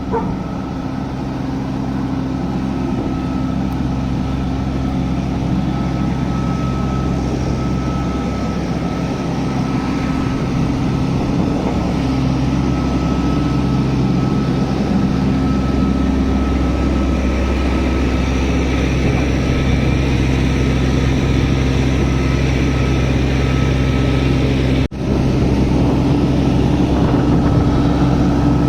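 A large engine running steadily at idle, a constant low hum with a thin steady whine above it, briefly cut off about 25 seconds in.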